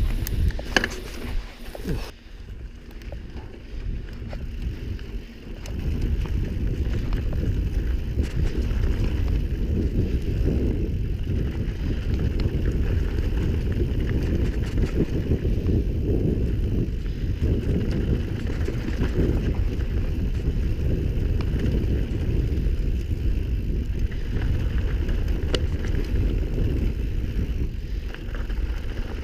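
Mountain bike moving along a dirt trail: a steady low rumble of tyres and wind on the microphone, with faint ticks and rattles. It drops for a few seconds near the start and then runs on evenly.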